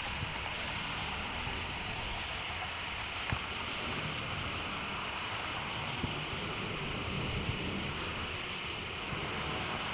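Aircraft passing overhead at a distance: a steady, even rushing noise, with a single click about three seconds in.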